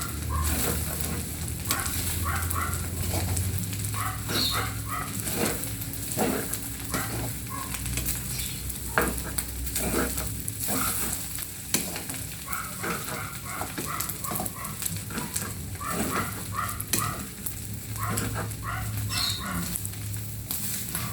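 Food frying and sizzling in a pan, stirred with a spatula that scrapes and clicks against the pan.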